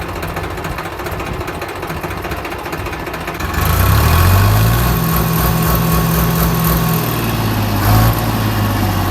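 Farmtrac 60 tractor's diesel engine running; about three and a half seconds in it gets louder and revs up, then holds a steady pitch, typical of the engine pulling hard.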